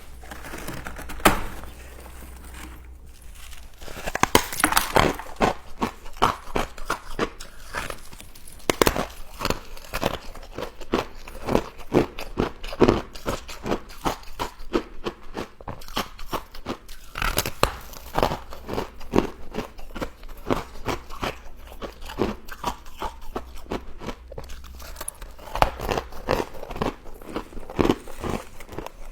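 Crunching and chewing of frost close to the microphone: rapid crisp crunches one after another, starting in earnest about four seconds in.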